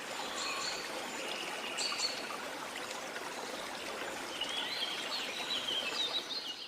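A flowing river rushing steadily, with birds chirping a few times and giving a run of quick warbling calls in the second half; the sound fades out near the end.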